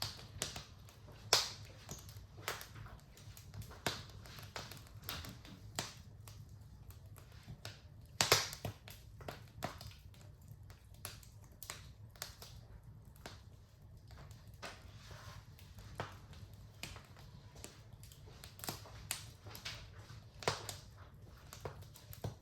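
Wood fire in a fireplace crackling, with irregular snaps and pops over a low steady rumble; the sharpest pops come about a second in and about eight seconds in.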